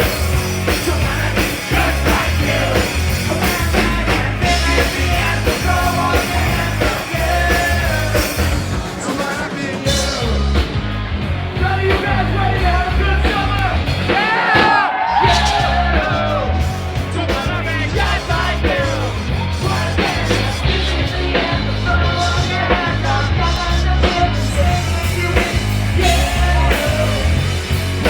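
Rock music with a singer over a heavy, pulsing bass beat; the bass drops out briefly about halfway through.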